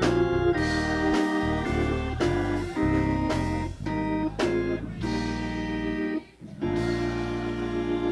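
Instrumental church music: organ and bass-heavy chords played in short punctuated hits, with a brief break about six seconds in.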